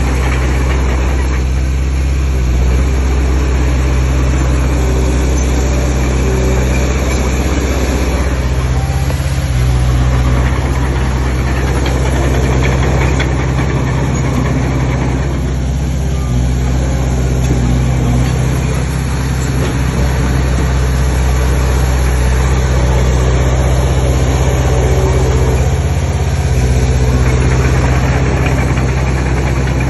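Heavy earthmoving machine's diesel engine running continuously with a loud, low drone. Its pitch and level shift a few times, about a third of the way in, around the middle and near the end.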